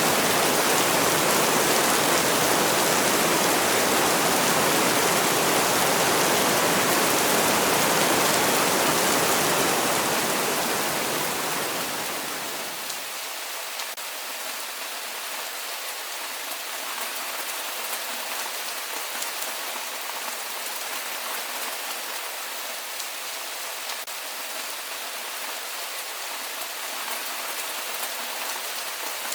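Heavy rain as a dense, even hiss, which about ten seconds in fades over a few seconds into a quieter, lighter rain with scattered single drops.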